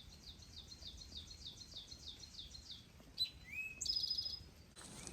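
Songbirds singing faintly. First comes a rapid run of repeated downslurred chirps, about five a second, for nearly three seconds. Then a different song follows, with a rising whistle and a buzzy trill.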